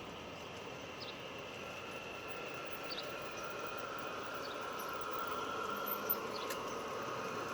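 Spur 1 scale model of a MÁV M62 diesel locomotive running on garden railway track, with a steady whine that grows slowly louder. Faint short ticks come every second or two.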